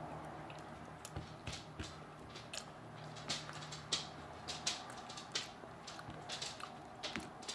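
A person chewing a mouthful of beef pot pie with mouth open: faint, irregular wet smacks and clicks, a few a second.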